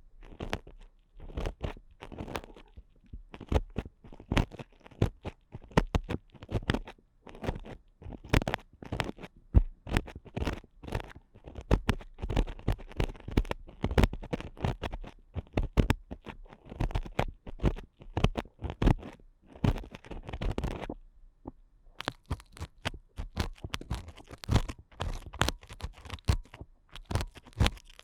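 Ear picks scraping and scratching hard inside an ASMR microphone's ear, close up: a dense run of quick, crackly scrapes and clicks, with a brief pause about 21 seconds in.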